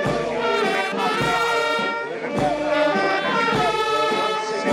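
Brass band music with sustained horn notes over a low drum beat about once every second and a bit.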